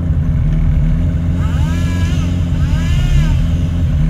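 UAZ off-road vehicle's engine idling steadily.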